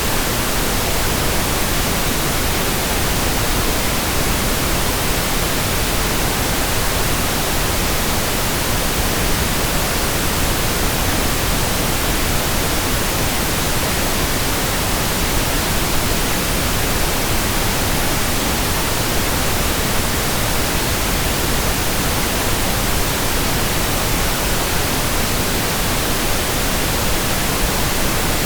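Steady pink noise: an even, unbroken hiss spread across all pitches, unchanging throughout.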